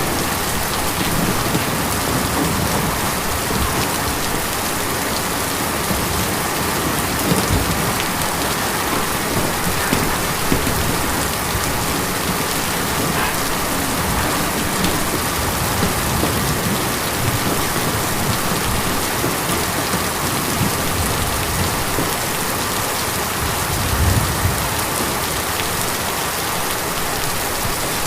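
Steady rain drumming on a tin roof, a dense even patter with a few louder drops striking now and then. A short low rumble rises briefly near the end.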